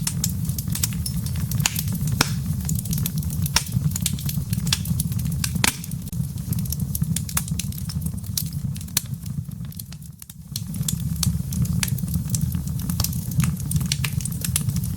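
Wood logs burning in a fireplace: a steady low rumble of flames with frequent sharp crackles and pops, one louder pop about six seconds in. The rumble drops away briefly about two-thirds of the way through, then returns.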